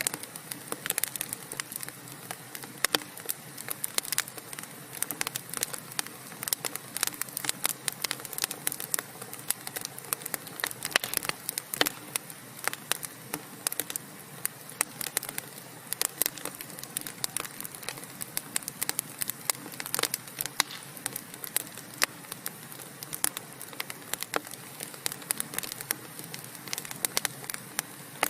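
Wood fire burning in a fireplace, logs crackling and popping with many irregular sharp snaps over a soft steady hiss.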